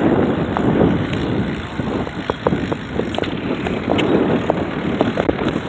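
Wind rumbling on the microphone of a moving bicycle, mixed with the noise of a car close behind, loudest in the first second and easing off. Scattered light clicks run through the middle.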